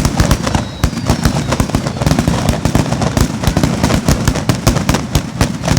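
Fireworks display: a dense, rapid run of bangs and crackling pops, several a second, over a low rumble.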